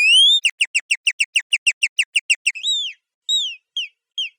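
Synthetic birdsong made from a human voice, chopped up and pitched up three octaves: a rising whistle, then a rapid trill of short downward chirps about six a second. After that comes a longer rising-then-falling note and slower, separate downward chirps.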